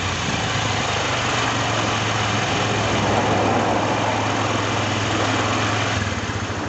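Honda Ape 50's small single-cylinder four-stroke engine idling steadily after a start-up; its steady low note breaks off about six seconds in.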